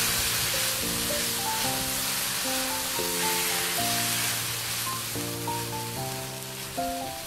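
Blended chili, shallot, garlic and tomato paste sizzling in a little oil in a stone-coated wok as it is stirred with a spatula, cooking down until the tomato juice has evaporated. Background music with held notes that change every half second or so plays over the sizzling.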